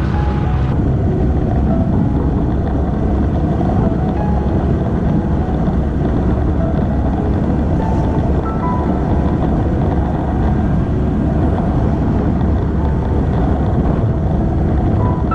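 Steady low rumble of wind and road noise from a moving vehicle, with soft background music notes over it.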